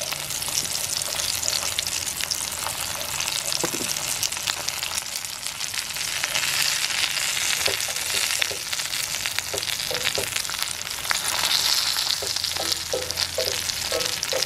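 Breaded fish fingers sizzling and crackling steadily in hot oil in a cast iron pan, with tongs moving among them.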